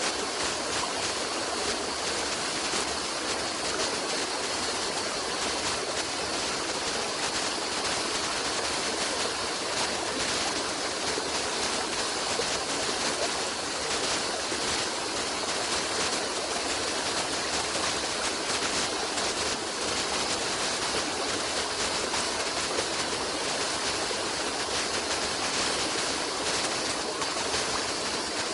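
Running water of a stream: a steady, unbroken rushing.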